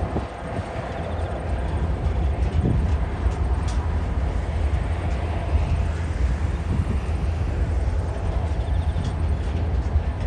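Freight train rolling across a bridge: a steady low rumble with scattered clicks and knocks from the wheels.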